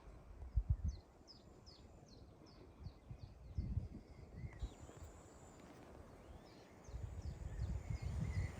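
A songbird calling a run of short, downward-sliding high notes, about three a second, twice: once for about three seconds, then again near the end. Low rustling and thumps come and go underneath.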